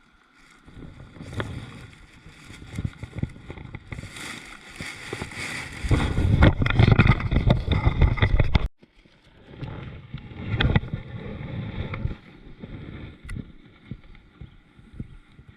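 Irregular splashing and knocking of water and gear around a fishing kayak. The loudest stretch, a bit past the middle, cuts off abruptly, followed by quieter splashes.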